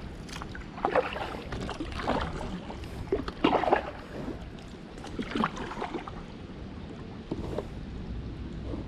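Kayak paddle strokes dipping into the water, a splash about every second or so, fainter after about six seconds.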